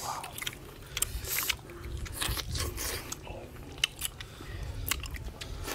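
Eating sounds: people biting and chewing cooked softshell turtle meat, with irregular small clicks.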